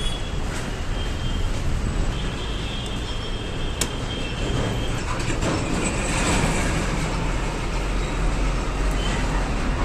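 Steady vehicle rumble with a faint high whine, broken by a few sharp clicks.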